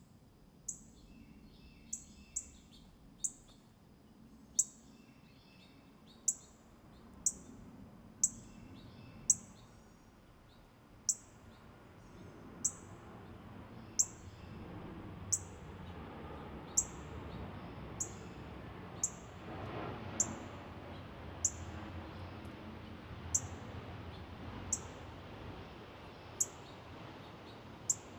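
A bird repeating a short, very high, sharp chip note about once a second, some twenty times over, with a few fainter lower notes between the chips early on. A soft, steady background hum rises and falls underneath.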